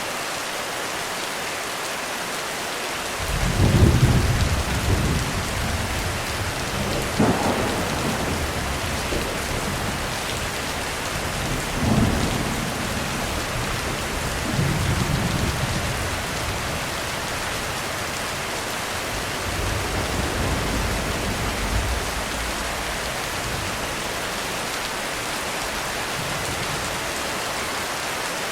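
Heavy rain falling steadily on a roof, with a roll of thunder breaking in suddenly about three seconds in. The loudest clap comes first, then further cracks and rumbles come and go before dying away about three-quarters of the way through, leaving the rain alone.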